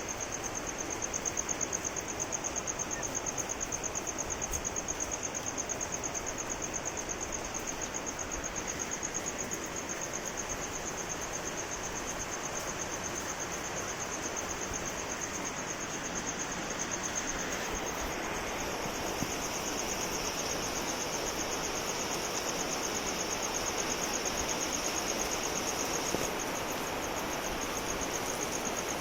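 Steady rain falling, with a continuous high-pitched insect trill over it that grows louder about twenty seconds in.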